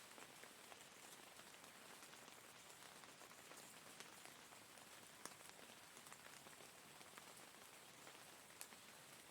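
Steady rain falling, with a soft even hiss and scattered single drops ticking sharply on a surface.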